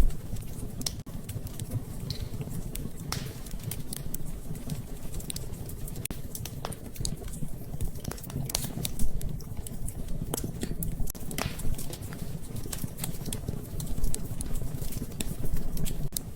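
Wood fire crackling, with irregular sharp pops and snaps over a low steady rumble; a few pops stand out louder.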